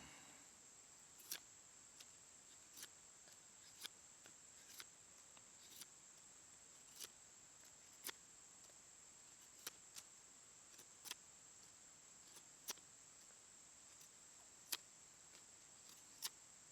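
Faint, sharp clicks or ticks at irregular intervals, roughly one a second, over a steady faint high-pitched tone.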